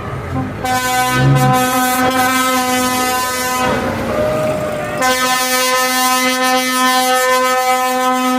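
Vehicle air horn sounding two long, steady blasts: one of about three seconds, and after a short break a second that is still going at the end.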